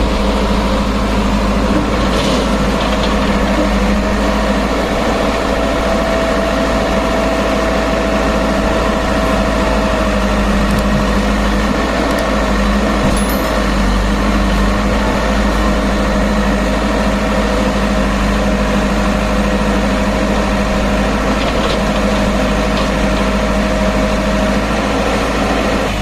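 Heavy diesel machine engine running steadily, with a thin whine held over its note that drops out briefly a few times.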